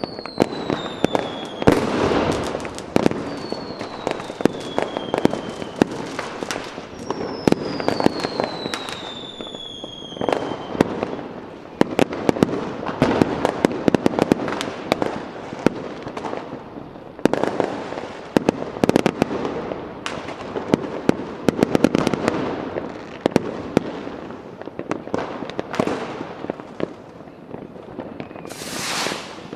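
Fireworks going off: a dense run of bangs and crackling, with three falling whistles in the first ten seconds and a short rushing hiss near the end.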